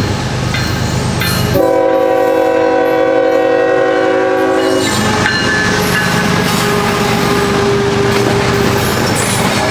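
A CSX freight locomotive's multi-chime air horn sounds one long blast of about three seconds, starting about one and a half seconds in, over the steady rumble and clatter of a loaded coal train running past. A second horn blast begins at the very end.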